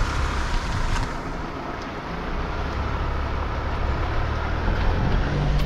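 Vehicle driving along a dirt road: a steady engine hum under constant tyre and road noise.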